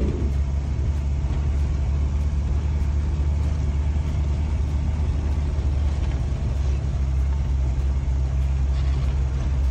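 Steady, loud rumble of a motor vehicle's engine and running gear, heard from inside the vehicle.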